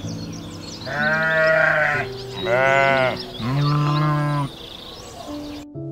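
Three long, wavering bleats from sheep or goats, one after another about a second apart, over steady held tones of soft background music.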